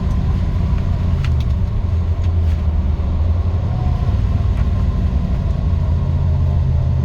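1955 Chevrolet Bel Air on the move, heard from inside the cabin: a steady low drone of engine, drivetrain and road that eases slightly a couple of seconds in.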